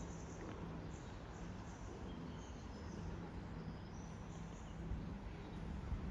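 Small birds chirping in short repeated high calls over a low steady hum.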